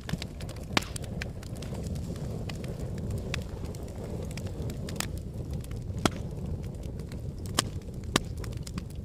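Volcanic eruption: a steady low rumble with sharp, irregular cracks every second or so.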